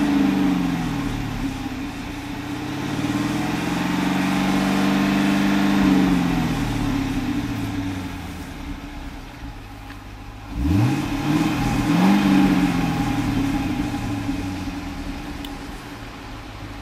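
LS6 V8 on its stock exhaust being revved: engine speed falls at first, swells up slowly and drops back toward idle, then takes two quick sharp blips before easing down again.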